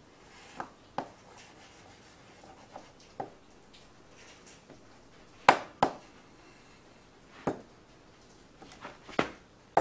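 Red-hot knife chopping at a fishing rod: about eight short, sharp knocks at irregular intervals, loudest about halfway through and near the end.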